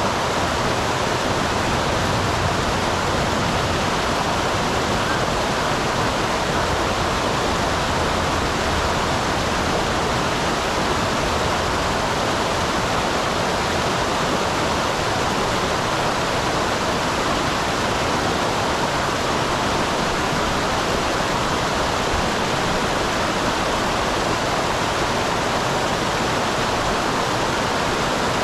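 Small waterfall on a mountain stream: water pouring and splashing in a steady, even rush.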